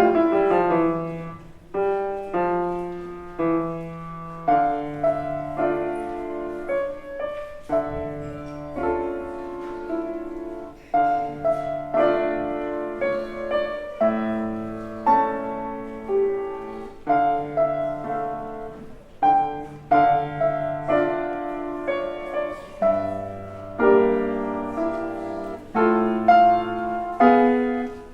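Piano played in a concert performance: chords and a melody line struck one after another, each note starting sharply and fading away.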